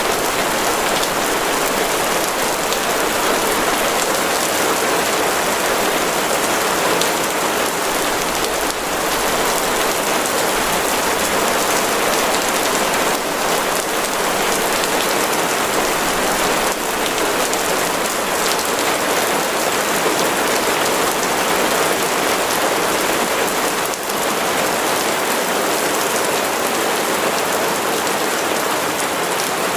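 Steady heavy rain falling, a dense hiss of drops with a few sharper individual drop hits.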